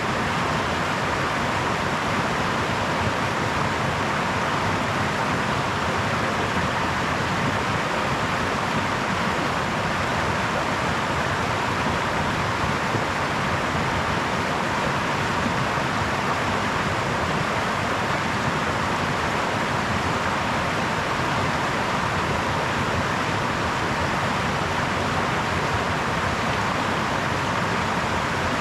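Brook water babbling over stones in a steady, unbroken rush.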